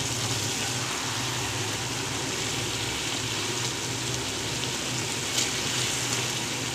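Chicken pieces in a yogurt-and-spice masala sizzling steadily in ghee in a karahi, the liquid cooking down over low heat. A single brief tick a little past five seconds in.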